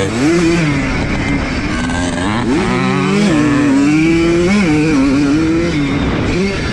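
1982 Yamaha YZ100's 100cc two-stroke single-cylinder engine revving hard, heard from on board, its pitch climbing and dropping repeatedly with throttle and gear changes.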